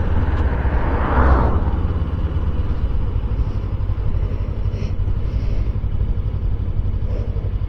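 Motorcycle on the move: steady low engine rumble under wind noise on the microphone, with a brief swell of rushing noise about a second in.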